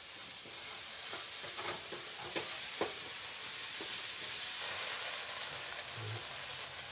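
Chopped peppers and onions sizzling in oil in a wok-style pan, with a wooden spatula scraping and knocking against the pan as they are stirred. The sizzle stays steady while the spatula strokes come in scattered bunches through the first three seconds.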